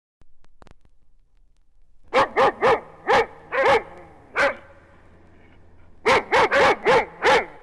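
A dog barking in two runs of quick barks, about six and then, after a short pause, five more.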